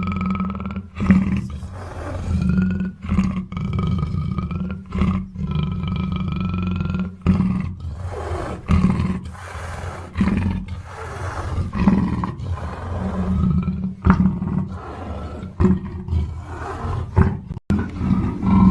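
Black leopard (black panther) roaring and growling in a run of repeated calls, each a second or two long with short breaks between them.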